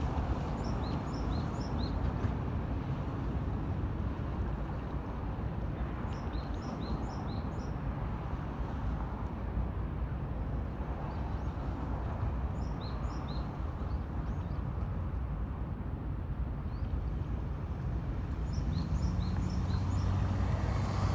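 Steady low outdoor rumble of background noise, over which a small bird repeats a short phrase of three or four high chirps about every six seconds. A deeper engine-like hum swells near the end.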